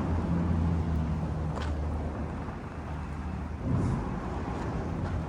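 A vehicle engine running steadily with a low hum over a noise haze, with a brief louder bump about four seconds in.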